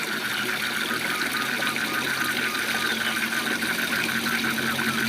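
Waterfall rushing steadily, with frogs calling in a fast, even train of pulses throughout.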